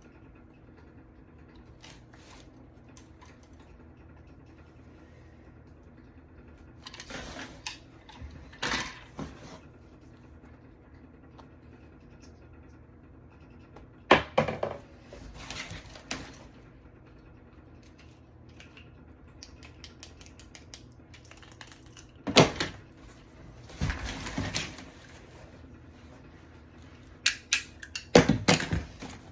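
Hard objects being handled: scattered bursts of clicks, knocks and clatter, four groups a few seconds apart, the sharpest knocks about 14 and 22 seconds in.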